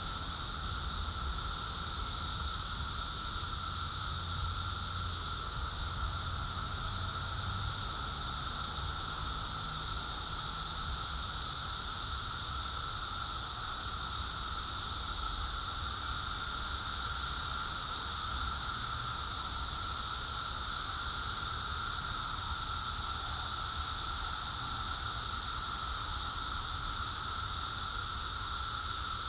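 Dense chorus of Brood X periodical cicadas, a steady unbroken shrill hiss with a lower, steady whining tone beneath it.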